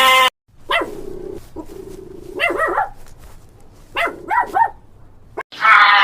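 A dog barking: a series of short barks, several coming in quick pairs and triples.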